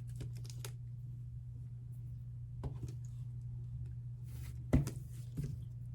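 Quiet handling of a K-pop album as its plastic wrapping is opened: faint crinkles and a few light taps, the sharpest a little under five seconds in, over a steady low hum.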